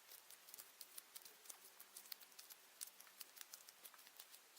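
Near silence with faint, irregular small clicks and taps of hands handling and kneading modelling dough.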